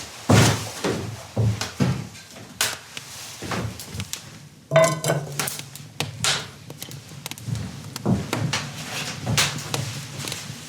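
Irregular knocks and clatter of objects being handled in a small room, with a brief metallic ring about five seconds in.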